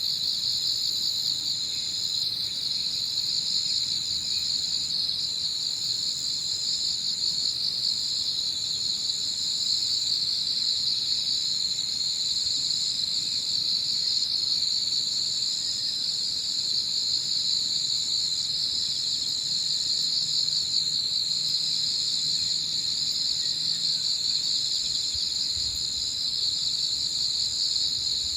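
Chorus of autumn crickets and other singing insects chirring continuously in a dense, steady, high-pitched trill, with a second, thinner, higher voice running above it.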